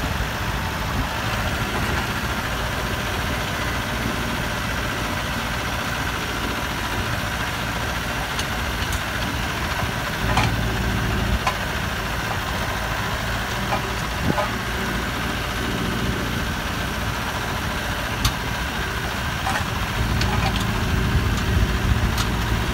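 Massey Ferguson 5430 Dyna-4 tractor's Perkins diesel engine running steadily, with a few faint clicks; its low rumble grows louder about ten seconds in and again near the end.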